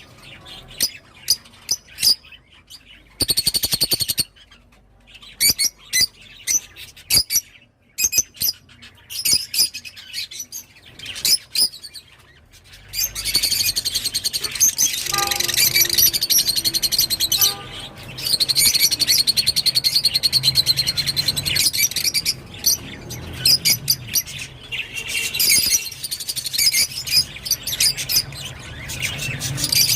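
Rosy-faced lovebirds chirping: scattered short, high chirps at first, then from a little under halfway in a dense, nearly continuous run of chirping.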